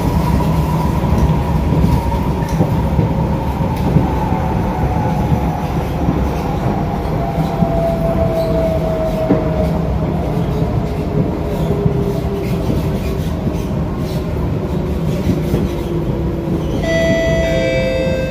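SMRT C151A electric train heard from inside the carriage: a steady rumble of wheels on rail, with a motor whine that slowly falls in pitch as the train slows. A high squeal starts suddenly near the end.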